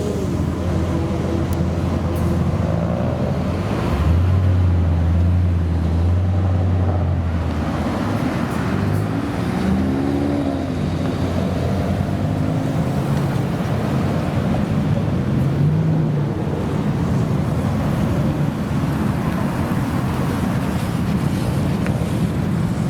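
Modified car's engine running with a loud exhaust, its revs rising and falling briefly a couple of times.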